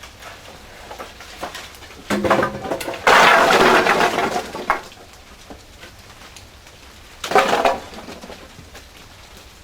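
Firewood clattering and cracking as it is stoked into a traditional wood-fired kiln, in three loud bursts: about two seconds in, a longer one from about three seconds in, and a short one near the end.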